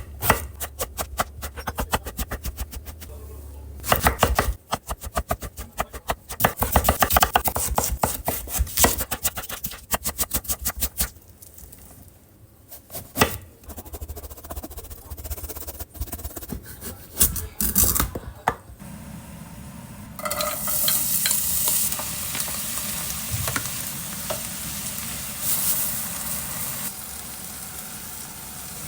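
A long, fast series of clicks and knocks from food being prepared with a utensil, then from about 20 seconds in, food sizzling in a frying pan.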